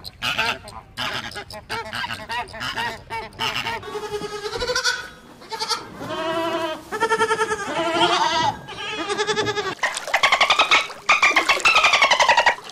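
A flock of flamingos calling in short, irregular calls, then a goat bleating several times in wavering bleats. From about ten seconds in, a dolphin makes rapid pulsed squeaks that glide up and down in pitch.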